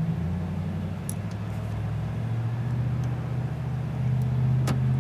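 Steady low hum of an idling vehicle engine, its pitch dipping just after the start and rising again about four seconds in, with a few faint clicks as plastic wiring connectors are pressed and pulled loose.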